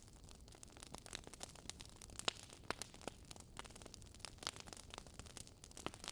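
Wood fire crackling: irregular sharp pops and snaps, several a second, over a faint hiss.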